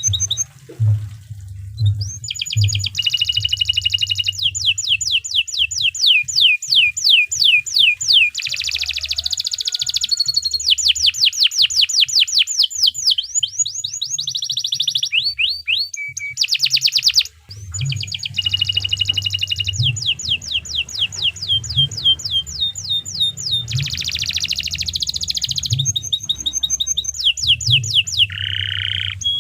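Domestic canary singing a long, continuous song of rapid trills and rolls, each phrase repeating its note many times a second, with a brief pause a little past halfway. A low hum runs underneath.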